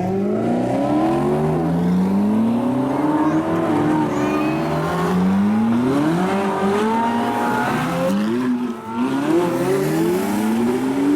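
Sports car engines accelerating hard as cars pull away, the engine pitch climbing and dropping again and again as they shift up through the gears, with a brief tire squeal.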